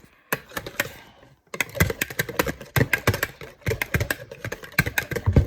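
Cream being mixed by hand in a bowl, the utensil clicking rapidly and unevenly against the bowl. The clicking is light at first and grows dense after about a second and a half.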